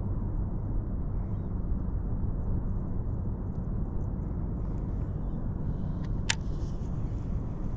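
Steady low rumbling noise on the microphone, with one sharp click about six seconds in.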